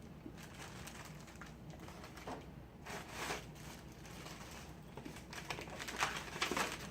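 Rustling and small clicks of items and packaging being handled, with louder rustles about three seconds in and again near the end.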